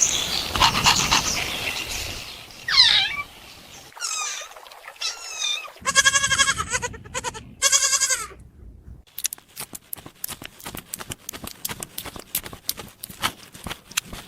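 Young animal cries: several high, quavering calls, some falling in pitch, followed by a long run of rapid, irregular light clicks.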